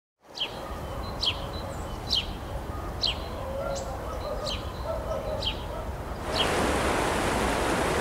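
A bird repeating a short, sharply falling call about eight times, roughly once a second, over a low rumble. About six seconds in, a louder steady rushing noise comes in and covers it.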